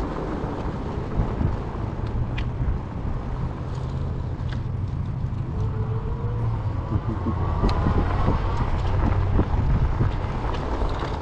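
Fat-tire e-bike on the move: a steady low drone of the fat tires and drivetrain. A whine rises in pitch about six to eight seconds in, and there are a few light clicks.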